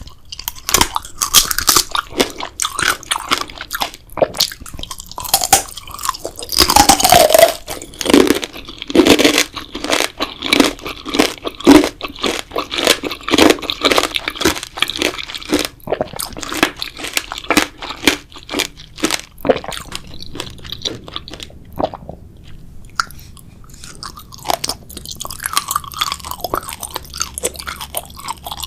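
ASMR eating of a grape jelly dessert close to the microphone: chewing with many sharp, wet mouth clicks. It goes quieter for a few seconds about two-thirds of the way through, then picks up again.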